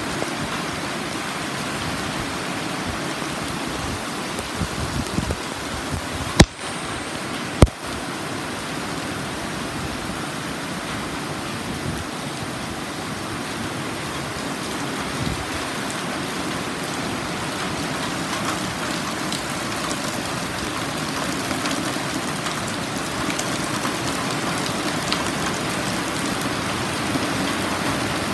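Heavy rain from a sudden cloudburst pouring steadily, getting a little louder towards the end. Two sharp clicks cut through it about six and seven and a half seconds in.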